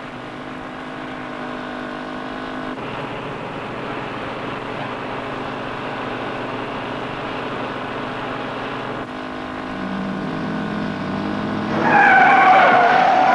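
A motor vehicle's engine running steadily, then tyres squealing loudly near the end.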